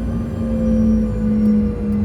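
Rear-mounted GE CF34 turbofan engines of a CRJ 200 running, heard inside the cabin: a steady drone with a low rumble, a strong low hum and a slowly wavering higher tone.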